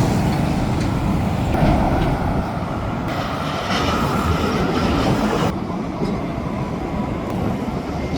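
Train running on its rails: a steady rumble of wheels on track that thins about five and a half seconds in.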